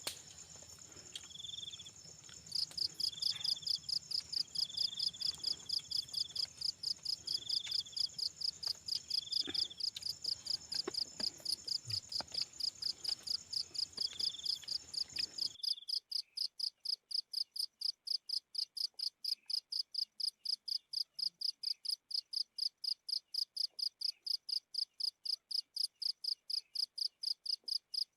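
Night insects, crickets, chirping in a fast, even pulse of about five high-pitched chirps a second. For the first half a steady high trill and a few slower, lower chirps run alongside. These drop out abruptly about halfway through, leaving the pulsing chirps alone.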